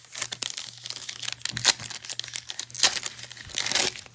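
Thin plastic trading-card pack wrapper crinkling and tearing as it is handled and torn open, with a few sharp louder crackles.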